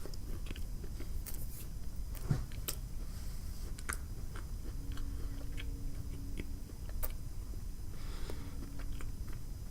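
Quiet chewing of a dry buttermilk biscuit, with scattered soft mouth clicks.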